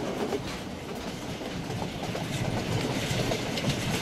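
Passenger train running along the track with a steady rumble and scattered clacks and rattles from the wheels and carriage.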